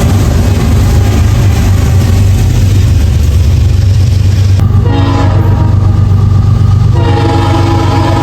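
Diesel locomotive running with a loud steady low drone, then sounding its multi-tone air horn from about five seconds in, the horn chord changing a couple of seconds later.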